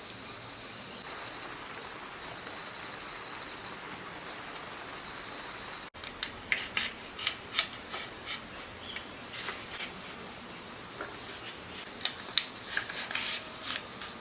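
Steady background hiss with faint high insect-like trilling, then, after a sudden cut about six seconds in, a run of irregular sharp clicks and clinks of tools and small metal parts being handled during the generator repair.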